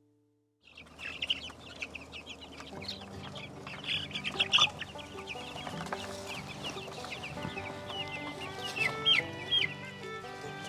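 Three-week-old Cornish cross and Buff Orpington chicks peeping constantly after a brief silence, with sharper, louder peeps about four seconds in and again near the end, over soft background music.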